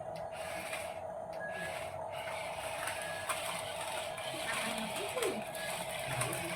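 Small electric motor and gearbox of a remote-control toy truck whirring steadily, with light clicks.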